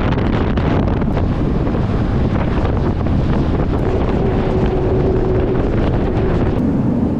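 Passenger train running at speed, heard at an open window: wind buffeting the microphone over the constant rumble of the carriage, with scattered clicks. A faint steady hum joins about four seconds in.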